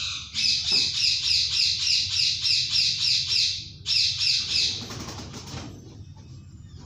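Indian ringneck parakeet screeching in a rapid run of harsh calls, about four a second for some three seconds, then a short second burst before it goes quiet.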